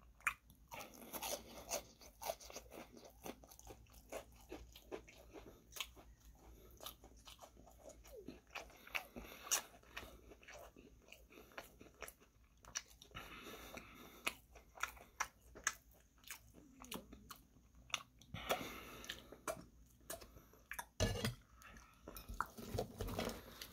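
Chewing a mouthful of chicken katsu, the fried breaded coating crunching in many short, irregular crunches.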